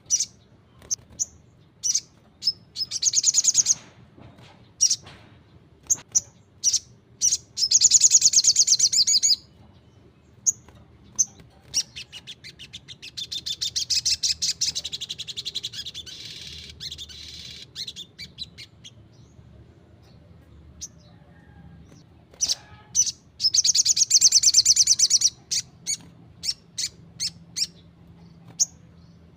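Sogon (sogok ontong), a small songbird, singing hard: short sharp chips scattered throughout, broken by several high, rapid trills of one to three seconds, the longest about thirteen seconds in.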